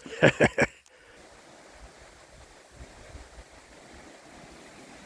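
Electric mountain bike rolling through water on a muddy track: a steady rushing hiss of the tyres through the water.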